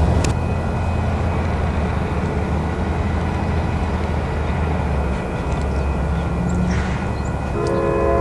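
Passenger train running through the station with a steady low rumble. Near the end, a train horn begins sounding a multi-note chord.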